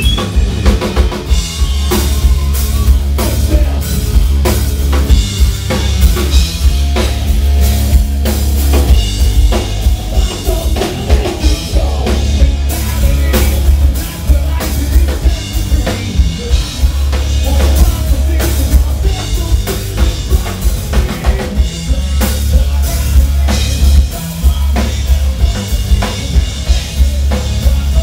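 Loud live rock band playing, with a drum kit pounding out bass drum and snare hits over a heavy low end.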